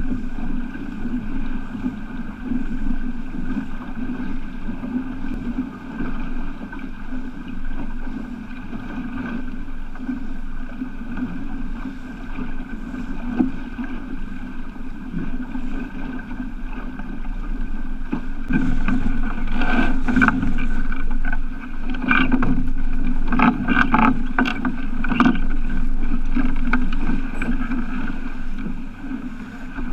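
Water rushing and splashing around a boat under way, with wind on the microphone and a steady low hum underneath. A run of louder splashes comes about two-thirds of the way through.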